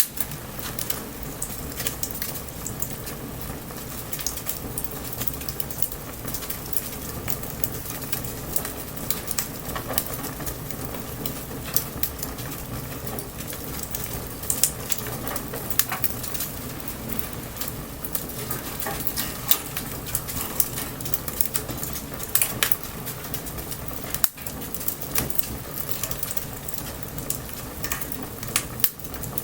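Wood bonfire burning, crackling with frequent sharp pops over a steady hiss, in light rain.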